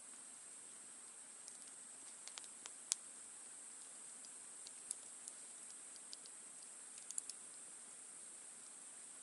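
Wood campfire crackling faintly, with scattered sharp pops: the loudest about three seconds in, and a quick cluster of three near seven seconds. A steady high hiss runs underneath.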